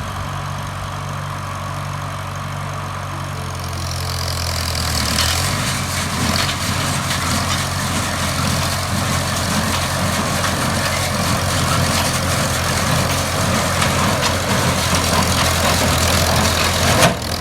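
1941 Farmall H tractor's four-cylinder engine running steadily. About four seconds in, a louder mechanical noise joins it and carries on, with a brief sharp peak near the end.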